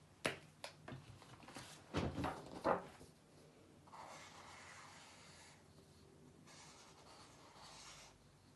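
A pen drawing by hand: a few clicks and knocks at first, then a run of soft, scratchy drawing strokes broken by short pauses.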